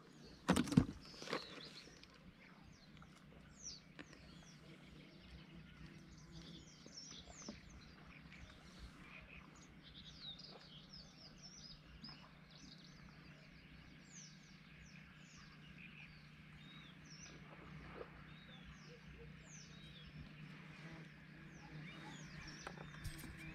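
Small birds chirping over and over, many short quick downward chirps, above a faint steady low hum. A few sharp knocks in the first second or two, as a fish is put into a plastic tackle box.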